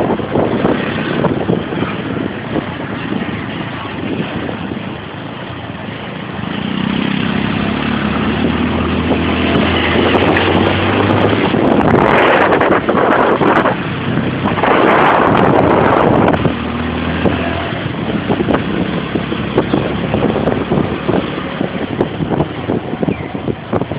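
Motorcycle engine running while riding, with wind buffeting the microphone. A steady low engine note stands out through the middle, with gusts of wind noise swelling over it twice.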